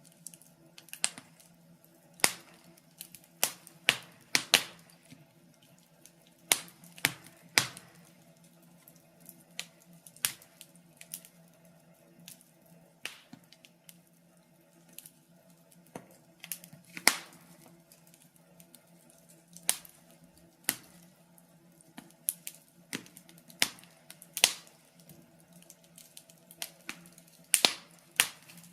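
Wood fire crackling in a fireplace: irregular sharp pops and snaps, a few noticeably louder than the rest, over a faint steady hum.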